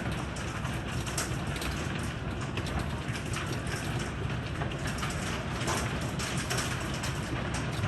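Heavy thunderstorm rain falling steadily, with frequent irregular sharp ticks of hailstones striking hard surfaces.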